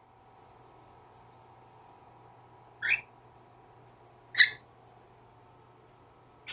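Cockatiel giving short chirping calls, three of them about a second and a half apart, the middle one loudest.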